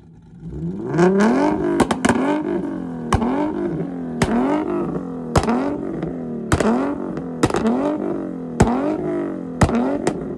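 A car engine revved hard over and over, about once a second, each rise in pitch ending in a sharp exhaust bang before the revs fall away: backfire bangs of a flame-shooting rev.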